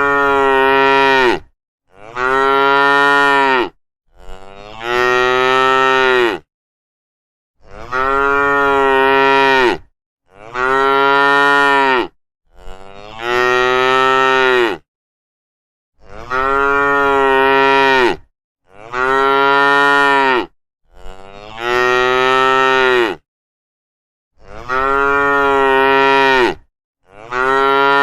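Cow mooing over and over: about eleven long moos, each about two seconds, every one rising slightly then falling at the end. They are separated by short gaps of complete silence.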